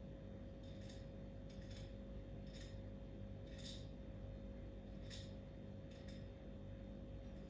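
Faint, irregular sharp clicks or snips, about seven of them spaced unevenly, over a steady low electrical-sounding hum.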